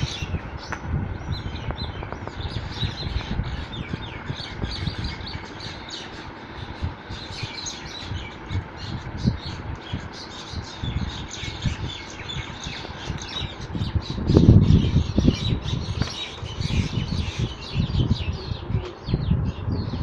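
Birds fighting, giving rapid, repeated chirps and squawks, over low, uneven thuds and rustling. A louder burst of low thuds comes about fourteen seconds in.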